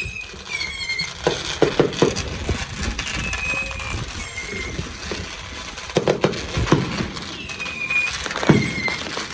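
Fireworks going off in the distance: clusters of bangs and crackles, with short high squealing tones that dip slightly in pitch recurring every second or two.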